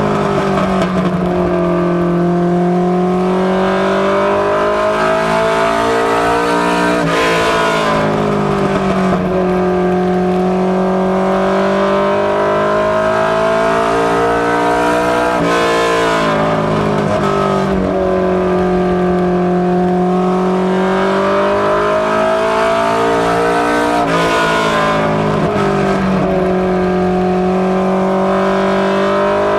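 Mustang notchback mini stock race car's engine running hard on an oval during practice laps. Its pitch climbs and falls in a cycle that repeats about every eight to nine seconds, as it accelerates down each straight and eases off for the turns.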